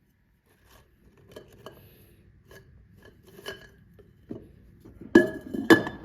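Light handling sounds on a tabletop: scattered rustles and small clicks, then two sharper knocks about half a second apart near the end.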